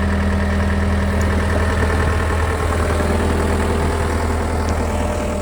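John Deere 325G compact track loader's diesel engine running steadily at constant speed, a deep even hum with no revving.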